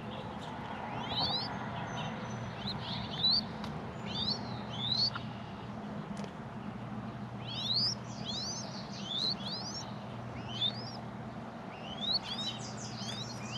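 Small bird chirping: short, quick rising chirps, singly and in runs of two or three, over a low steady hum.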